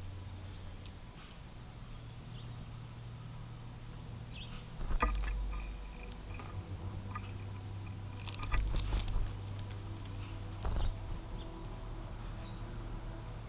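Knocks and scrabbling at a bird feeder, loudest about five seconds in and again around nine seconds, with a few faint bird chirps over a steady low hum.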